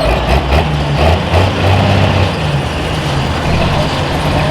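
Pulling tractor's engine running loud and low, its pitch shifting up and down.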